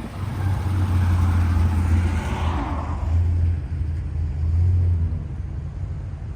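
A car's engine revving with a deep exhaust drone that swells in three surges over about five seconds, then dies down.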